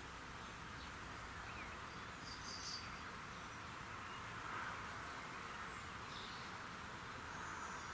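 Faint early-morning birdsong: a few short, high bird chirps over a steady, even background chorus.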